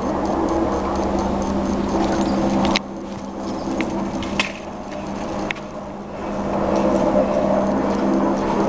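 Helicopter hovering overhead: a steady drone with a fast low rotor chop. It dips in level about three seconds in and swells again near the end, with a few sharp clicks in between.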